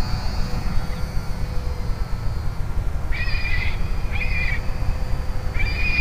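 A bird gives three harsh calls, each about half a second long, in the second half, over a steady low rumble.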